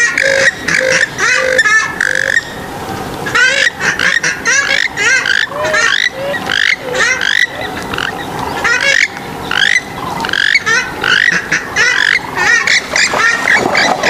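Swamphens and moorhens calling: many short, overlapping calls that rise and fall in pitch. In the first two seconds they run over a row of evenly repeated low notes, then break off briefly and resume thickly.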